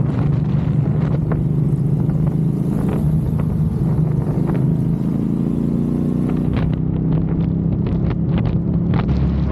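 Motorcycle engine running while under way, a steady low drone that rises slightly in pitch over the last few seconds as it speeds up.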